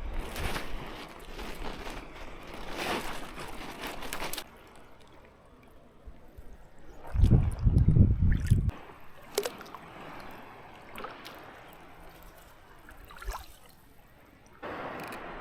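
Water splashing and sloshing in irregular bursts. About halfway through comes a loud low rumble lasting a second or two, from the microphone being knocked or buffeted.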